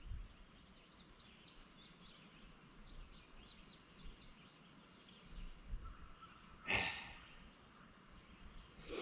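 Faint songbirds chirping outdoors, with many short, quick notes in the first few seconds. About seven seconds in comes one brief, sharper sound that is the loudest thing here.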